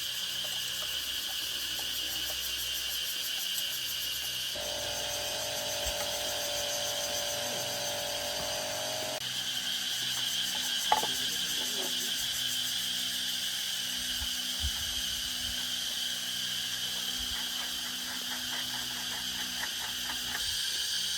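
Cicadas buzzing steadily in a high-pitched chorus. A second steady tone joins for about five seconds early on, and there is one sharp click about 11 seconds in.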